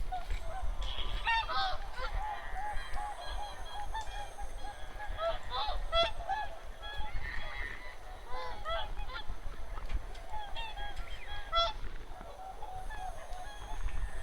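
A flock of wild geese calling, with many short honks overlapping in a continuous chorus.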